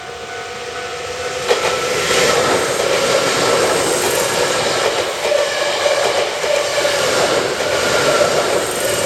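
Hankyu Imazu Line electric train passing close by. The noise builds over the first second and a half, stays loud for about seven seconds, then fades near the end.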